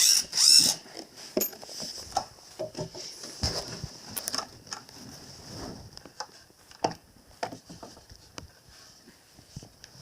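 Hand tools and parts clicking and knocking irregularly during work on an old television set, with the loudest knock about half a second in.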